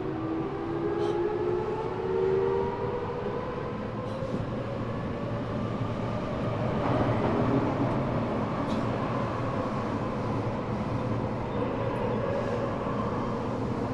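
The high-pitched whine of a Mitsubishi three-level VVVF inverter (a unit taken from a 7000 series train) under an Eidan 6000 series subway car, several tones rising slowly in pitch as the train accelerates, then fading about six seconds in, leaving the steady rumble of the car running on the track.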